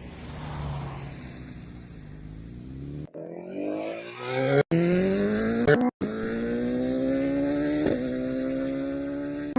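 Motorcycle engine under way with wind noise, then accelerating, its note climbing steadily in pitch for several seconds. The sound cuts out twice for an instant.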